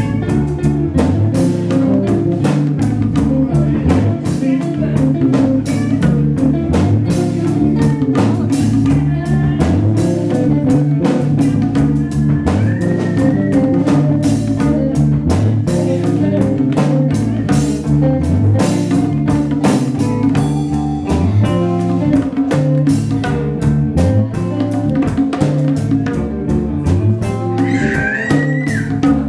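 Band music with guitar, bass and drum kit playing a steady beat.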